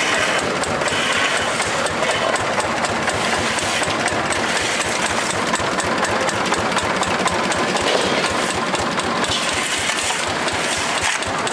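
Old excavator's engine running steadily with a fast mechanical clatter.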